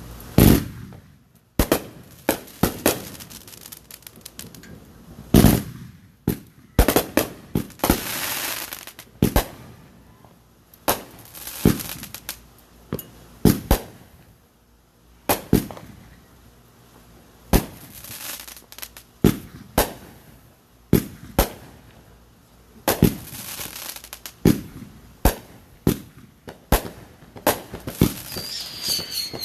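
Consumer fireworks going off: a long, irregular series of sharp bangs, some trailing a hissing crackle. A high whistle starts near the end.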